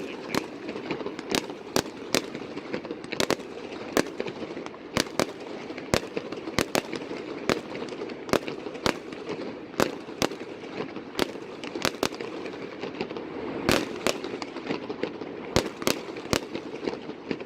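Fireworks display: a long run of sharp bangs from bursting shells, going off irregularly about once or twice a second over a steady background noise.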